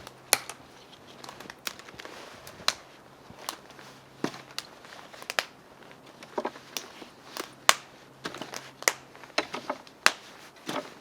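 Dry twigs and small sticks being snapped by hand for kindling: a string of sharp, irregular cracks, about one or two a second.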